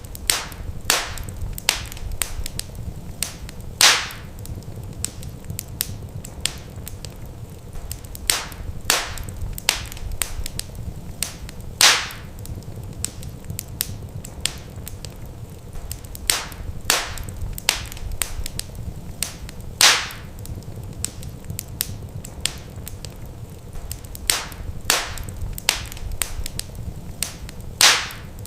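Wood fire crackling in a fireplace: irregular sharp snaps and pops over a low steady rumble, with a louder pop about every eight seconds.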